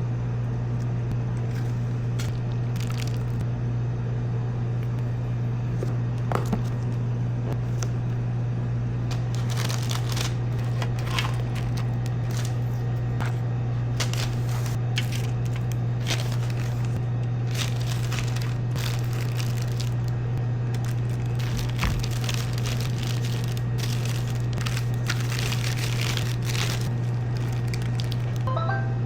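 A steady low hum with scattered light crinkling, clicks and taps over it.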